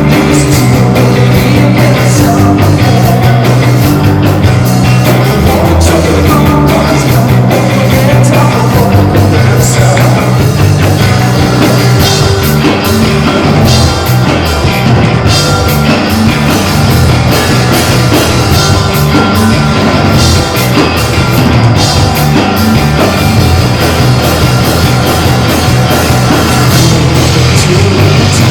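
Live rock band playing a song loudly, with a heavy bass line and drum and cymbal hits throughout.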